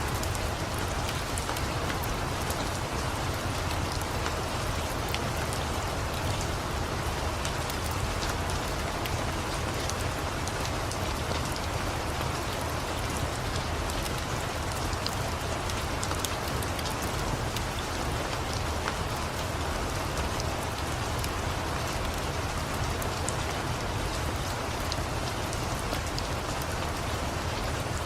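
Steady rain falling, an even hiss with a low rumble underneath and many small scattered ticks of drops.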